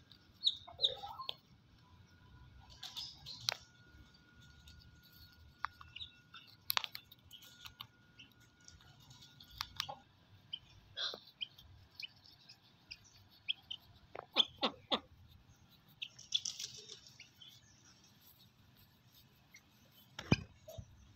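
Birds chirping now and then in short high calls, over a faint outdoor background, with a few sharp clicks. A small cluster of clicks comes about two thirds of the way through, and the loudest click comes near the end.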